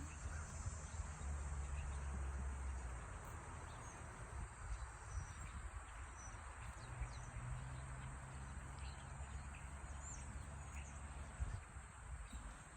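A steady, high insect chorus with scattered short bird chirps, over a low rumble that is loudest in the first few seconds.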